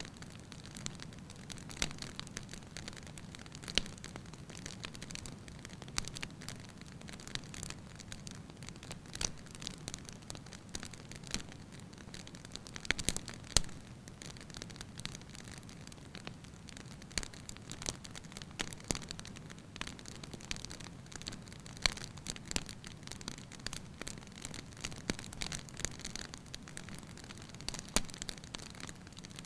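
Wood fire burning in a fireplace: frequent sharp crackles and pops over a steady low rumble, with the loudest pops a little under halfway through.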